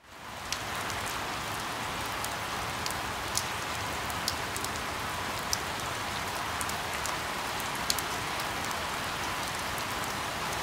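Steady rain falling on leaves, with scattered sharp ticks of single drops striking close by.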